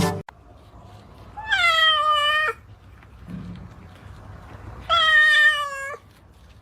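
A domestic cat meowing twice, two long drawn-out meows a few seconds apart.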